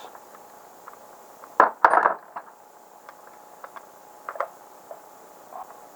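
Metal clinks and clanks of hand tools and carburetor parts being handled and set down on a work surface, with two loud clanks about a second and a half in and a few light ticks after.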